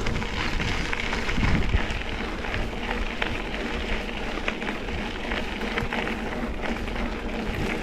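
Mountain bike rolling along a dirt double-track trail: steady rushing tyre noise with many small rattles and clicks from the bike.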